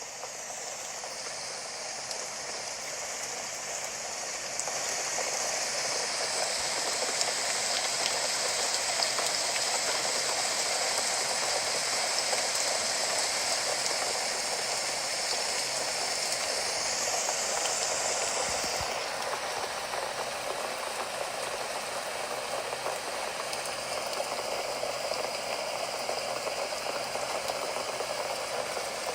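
Steady rain falling, an even hiss of many drops that swells up over the first few seconds; the brightest part of the hiss eases a little after about nineteen seconds.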